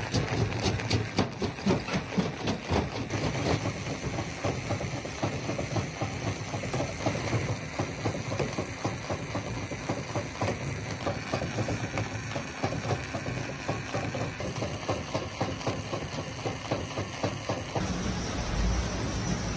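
Heavy machinery running with a dense clatter of rapid knocks and cracks, thickest in the first few seconds; the sound changes near the end.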